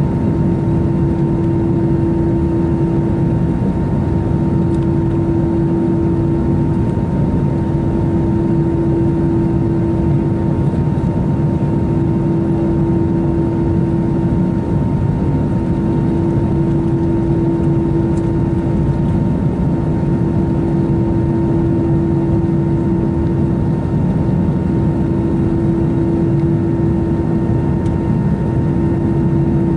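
Steady cabin noise inside an Airbus A321 in flight: the constant rush of air and jet engines, with a steady hum of unchanging pitch.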